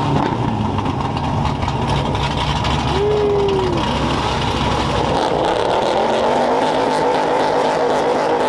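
Loud car engine noise, steady throughout, with one short rising-then-falling tone about three seconds in.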